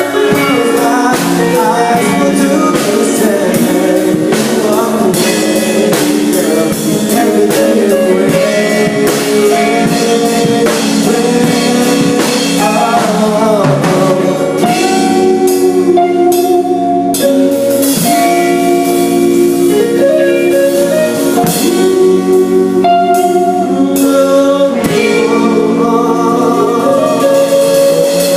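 Live band playing a pop ballad: drum kit, guitar and a singing voice together, steady and loud.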